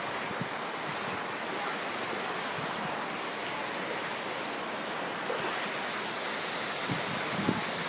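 Steady rushing noise of Tropical Storm Pabuk's wind and water, with a few faint knocks near the end.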